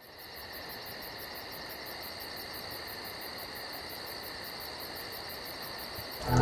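Crickets chirping in a night-time insect chorus, a fast even high pulsing over a steady hiss, fading in at the start. Loud music with sustained low tones comes in near the end.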